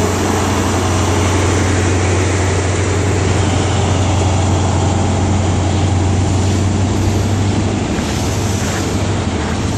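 Diesel engine of a Class 43 HST power car running loud and steady at the platform, a deep drone under a broad rumble that eases about eight seconds in.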